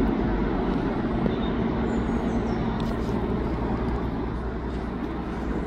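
Lumo Class 803 electric train running through the station, a steady rushing rumble of wheels and train body that eases slightly toward the end.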